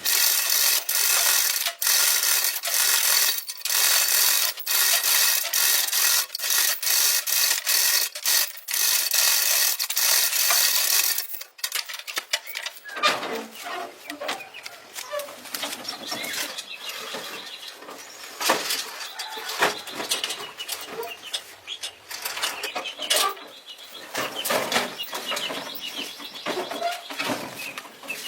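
Harsh abrasive rubbing on metal in steady strokes with short breaks between them, which stops suddenly about eleven seconds in. After it comes quieter, irregular scraping and clicking.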